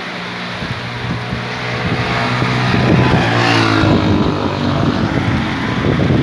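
Steady rain hiss, with a motor vehicle's engine growing louder and passing by about three and a half seconds in.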